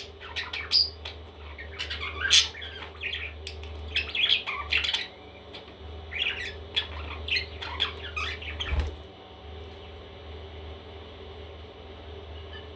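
Baby parrots squawking and chirping in quick short calls that stop about nine seconds in, with a dull thump at that point. A steady low hum runs underneath.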